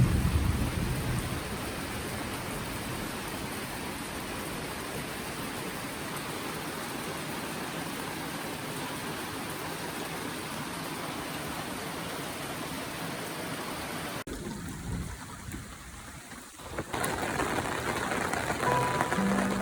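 Heavy rain falling steadily, with the tail of a thunder rumble dying away in the first second. About 14 seconds in the rain sound cuts off abruptly, and background music begins near the end.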